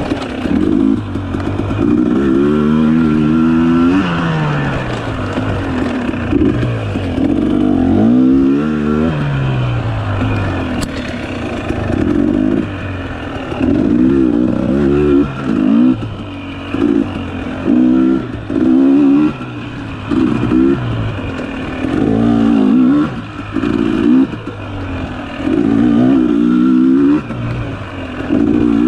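Dirt bike engine revving up and down in short, repeated bursts of throttle, rising in pitch and dropping back every second or two while riding through tight singletrack.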